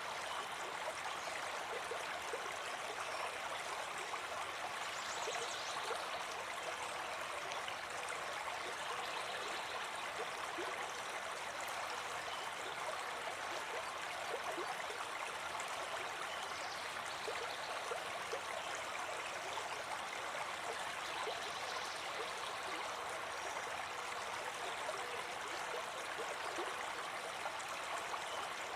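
A river flowing: steady rushing and babbling of water over rocks.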